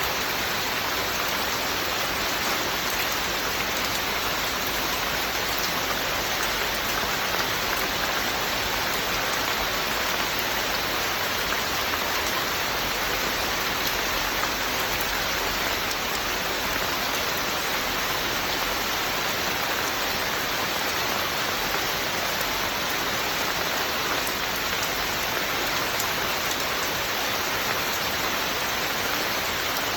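Steady rain falling without a break, an even hiss of drops.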